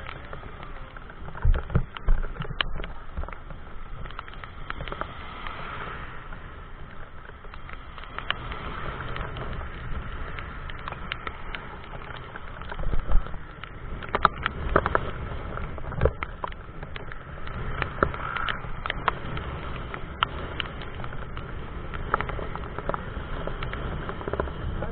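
Bicycle being ridden through heavy rain: a steady rush of wet road noise and wind, with scattered knocks and rattles from the bike.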